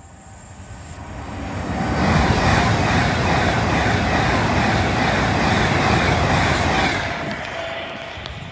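Avanti West Coast express train running through the station at speed without stopping: the rush of wheels on rail and air builds over about two seconds, holds loud, then drops away sharply about seven seconds in.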